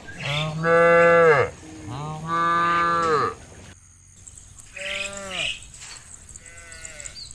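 Cattle mooing: two long, loud moos back to back, then two shorter, fainter calls.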